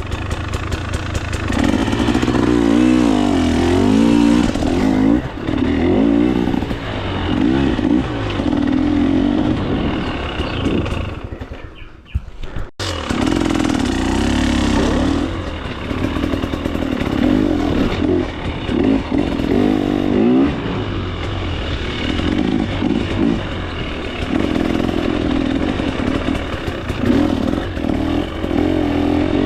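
2024 KTM 300 XC-W two-stroke single-cylinder engine under way on trail, revs rising and falling constantly with the throttle. About twelve seconds in it drops off briefly, with one sharp knock, before picking up again.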